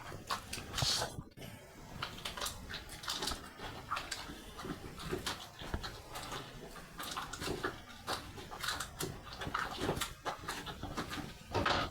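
Dog making short, irregular snuffling noises close to the microphone.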